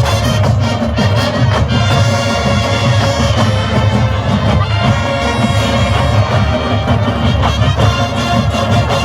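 Massed marching bands playing together: brass and woodwinds over a steady drum-line beat, loud and continuous.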